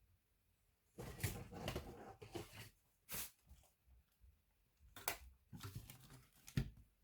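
Hands handling laptop parts: irregular rustling, scraping and small knocks in two spells, with a sharp knock near the end.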